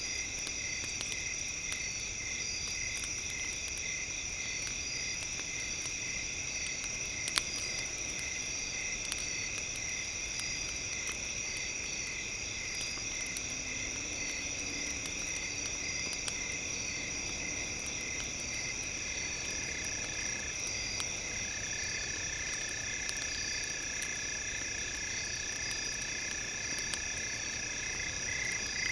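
Campfire crackling, with scattered small clicks and one louder pop about seven seconds in, over a steady night chorus of chirping insects and frogs with fast pulsing trills.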